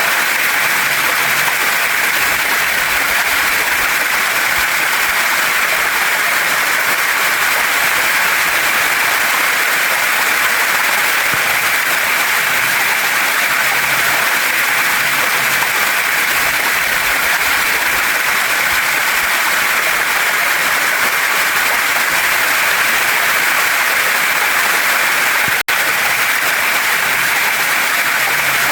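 Waterfall and stream water rushing in a steady, even wash of noise. It cuts out for an instant about 25 seconds in.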